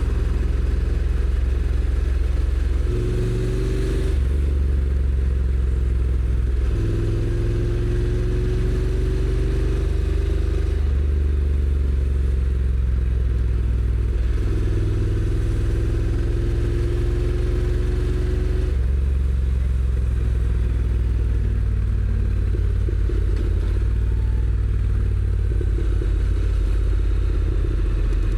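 Honda NC750X's 745 cc parallel-twin engine on the stock exhaust, pulling under way; its note rises in three stretches and drops back between them as the dual-clutch transmission shifts gear, over steady rushing noise.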